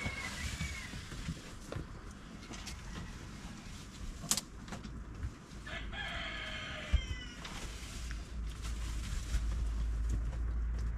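A rooster crows once about six seconds in, a call of about a second that dips in pitch at its end, after a shorter call right at the start. Sharp clicks fall between the calls, and a low rumble builds near the end.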